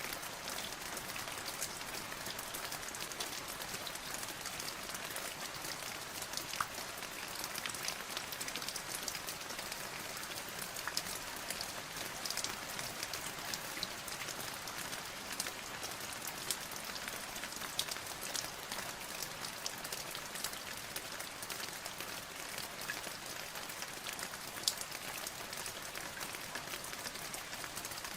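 Steady rain falling, a constant hiss dotted with many close raindrop ticks.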